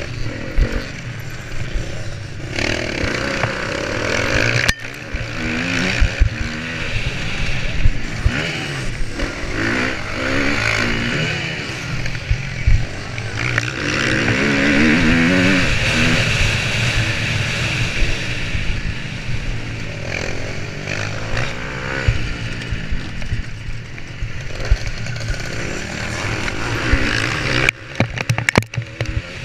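Motocross bike engine revving up and down, heard from on the bike, its pitch rising and falling again and again. There is a cluster of sharp knocks near the end.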